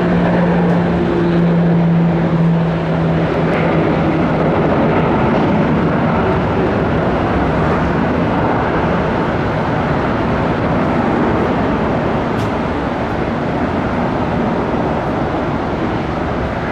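Short 360 twin-turboprop with its Pratt & Whitney Canada PT6A engines at take-off power. A steady low propeller hum fades about three seconds in, leaving a broad, continuous engine and air noise that grows slightly quieter near the end.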